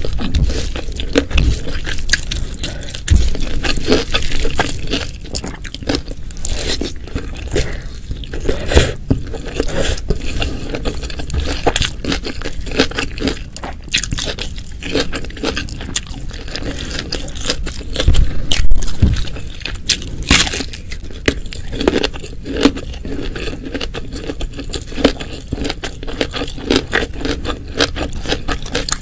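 Close-miked chewing and crunching of food, a dense, irregular run of wet clicks and crackly bites.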